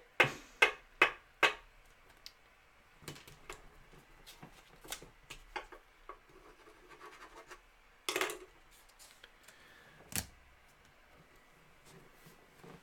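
Trading cards and card packaging being handled: scraping and rubbing, with four quick swishes at the start, a louder one about eight seconds in and a sharp tap about ten seconds in.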